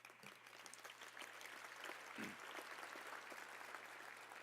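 Audience applauding, fairly faint, building just after the start and holding steady.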